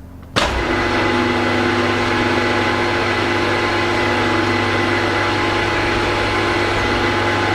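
Milling machine spindle motor switched on about half a second in, then running steadily with a constant hum, turning the tool that spots a starting point for a drill.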